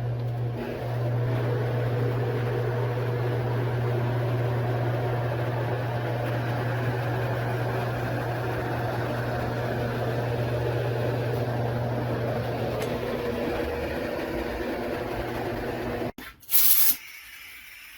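A machine running steadily, with a low hum under a noisy hiss. It cuts off about sixteen seconds in, and a short, loud high hiss follows.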